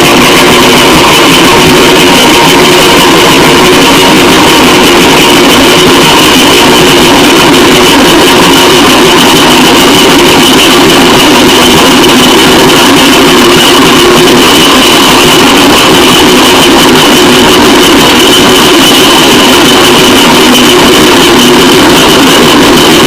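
Harsh noise music: a dense, heavily distorted wall of static, very loud and unchanging, with steady droning tones held inside it.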